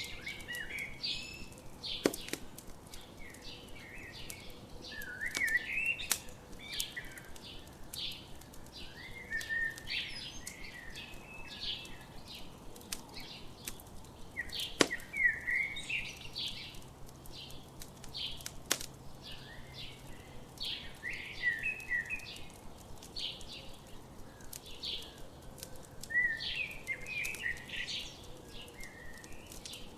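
Songbirds chirping and singing almost continuously in quick overlapping phrases, with a few sharp pops from a crackling campfire, the loudest about 2 s and 15 s in.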